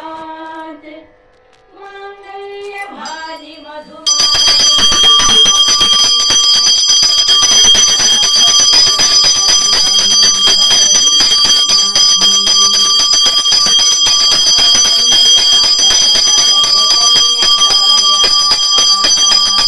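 Pooja hand bell rung rapidly and without pause, starting suddenly about four seconds in, its steady ringing tones sounding over a voice.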